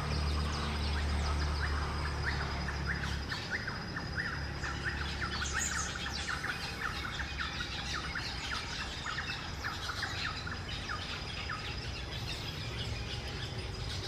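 Bronze-winged parrot calls: a rapid run of short chirping notes, several a second, that starts about a second and a half in and dies away near the end, over a low steady rumble.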